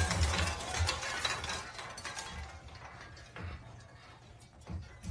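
Clattering and clinking of small hard objects, fading over about two seconds, with scattered clicks and knocks afterwards.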